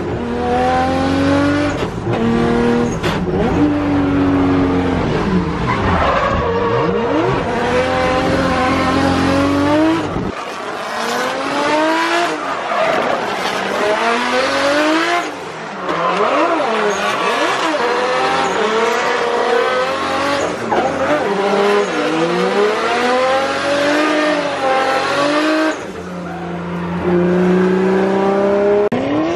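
In-car sound of the R32 Nissan Skyline drift car's turbocharged RB25DET straight-six, revving hard and dropping back again and again as the throttle is worked through the slides. The engine pitch rises and falls continuously, and the sound jumps abruptly about ten seconds in and again near the end.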